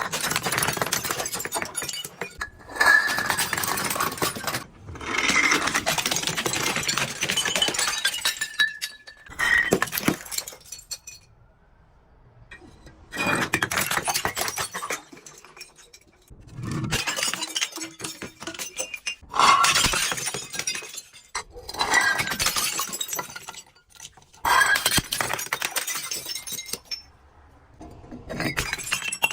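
Glass bottles being crushed, the glass crunching and shattering in repeated bursts of one to three seconds with short pauses between.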